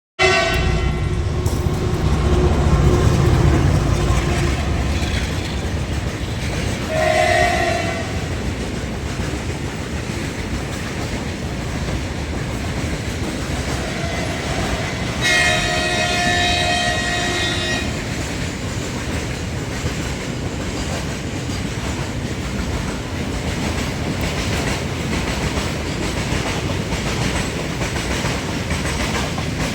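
Loaded container freight train passing at speed, with a steady rumble that is heaviest in the first few seconds and wheels clacking over the rail joints. A horn sounds briefly about seven seconds in and again for about two and a half seconds around fifteen seconds in.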